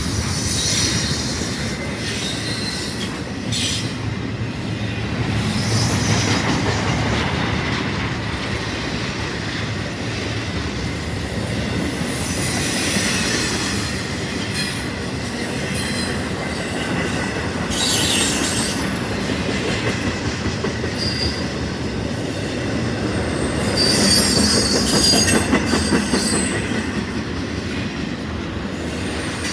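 Freight train cars rolling past, the wheels clacking steadily over rail joints, with brief high squeals from the wheels a few times, loudest around a quarter of the way in and again near the end.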